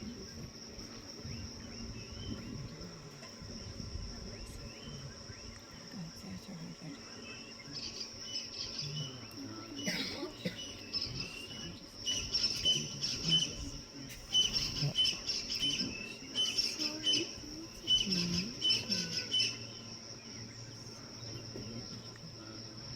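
A steady high insect drone throughout, with a bird calling over it in quick, repeated chirping phrases from about eight seconds in for some ten seconds.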